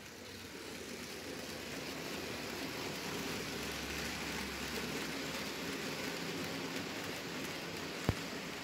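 Märklin H0 model freight train rolling over stamped-metal M-track, making a steady rattling rush of wheels on the rails. It grows louder over the first few seconds as the train comes close, and a single sharp click is heard near the end.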